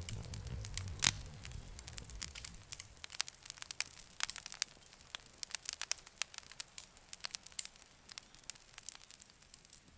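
Wood fire crackling and popping in irregular sharp snaps, with a loud pop about a second in. A low rumble under the fire fades away in the first couple of seconds.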